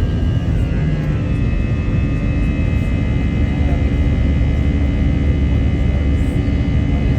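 Jet airliner engines running under power: a heavy, steady low rumble with a high, even whine, whose tones shift slightly upward about a second in.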